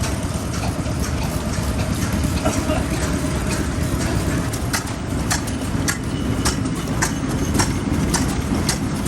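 Old stationary engines running together in a low, steady rumble, with strong wind buffeting the microphone. About halfway in, a run of sharp clicks starts, roughly two to three a second.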